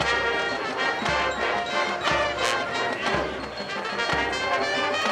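High school marching band playing, brass carrying the tune over bass drum strokes about once a second, with a cymbal crash about halfway through.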